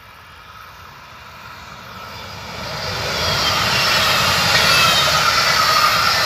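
Electric passenger train of coaches approaching and passing close by: the rush of wheels on the rails grows louder through the first three seconds, then holds loud as the coaches go past, with faint falling whines over the noise.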